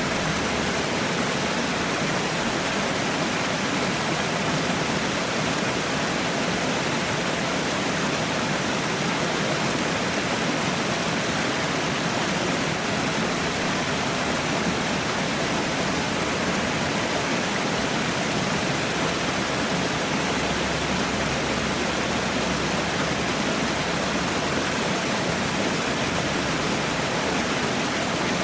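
Falling water running steadily, an even rushing with no change in level.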